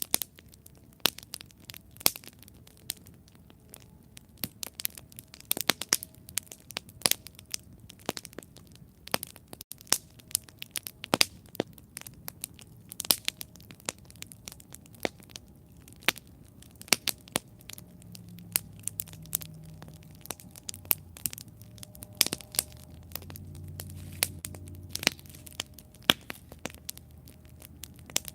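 Wood campfire crackling, with many irregular sharp pops and snaps. A soft low rumble swells up in the second half and fades again near the end.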